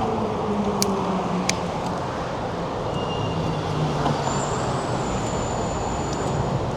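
Road traffic noise from passing cars, with a low engine hum that slowly drops in pitch. Two short clicks come about a second in.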